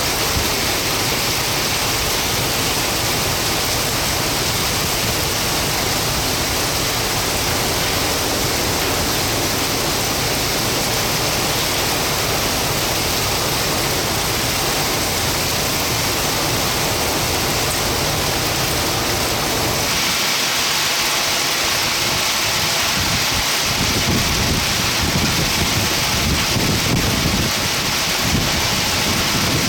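Heavy rain in a severe thunderstorm: a dense, steady hiss of downpour. About two-thirds of the way through the sound changes, and low rumbling swells come in near the end.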